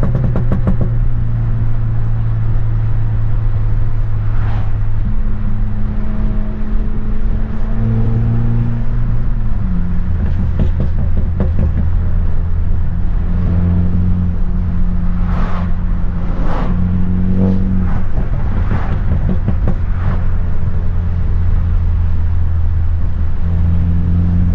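Straight-piped, tuned BMW F30 328i with its turbocharged four-cylinder engine droning loudly through the exhaust while driving. The pitch steps down about halfway through and then holds steady, with a few brief crackles from the exhaust.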